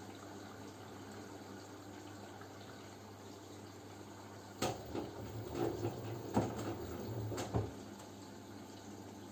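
LG F10B9LD front-loading washing machine in its wash phase, with a faint steady hum and water noise. About halfway through, the drum turns for about three seconds, sloshing water and tumbling laundry with a few knocks, then stops.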